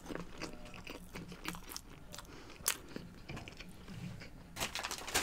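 Quiet chewing of fast food close to the microphone, with a few sharp mouth clicks and a busier run of clicks shortly before the end.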